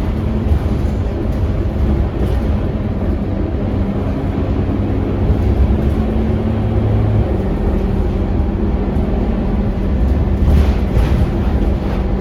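Scania K230UB city bus's diesel engine running steadily as the bus travels, a low drone mixed with road noise.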